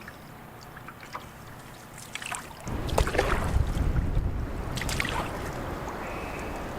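Canoe being paddled: water splashing around the paddle and hull, with a few knocks. About a third of the way in, a low rumble of wind on the microphone sets in and stays.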